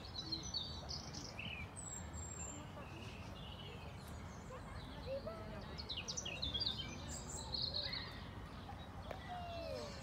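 Small songbirds chirping and trilling in short bursts, busiest about six to eight seconds in, over a steady low outdoor rumble.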